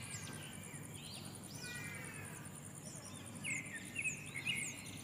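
Outdoor chorus of a steady, fast-pulsing high-pitched insect trill with many birds calling over it in short arched and sliding notes. A few louder short calls come about three and a half seconds in.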